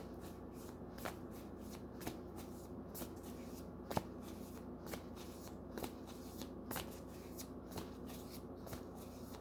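A tarot deck being shuffled by hand, quietly, with a sharp card snap or tap about once a second.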